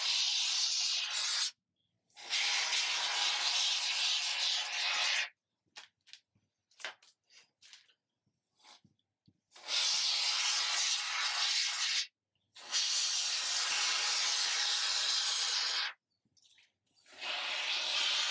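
An aerosol can of expanding sealing foam spraying in five long hissing bursts of two to three and a half seconds each, with short pauses between them. In the longest pause there are a few faint clicks.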